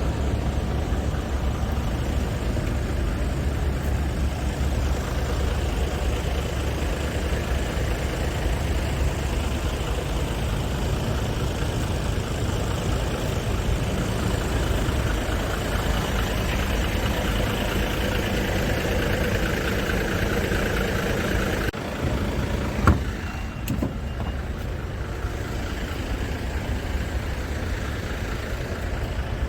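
Scania R450 tractor unit's 13-litre inline-six diesel engine running steadily. About three quarters of the way through, the sound changes abruptly and a single sharp knock is heard.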